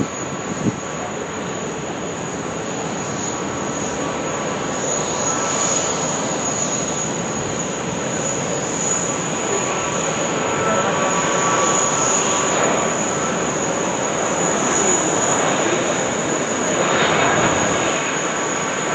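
Jet airliner engines running, a steady rushing noise with a thin high whine over it, growing slightly louder in the second half.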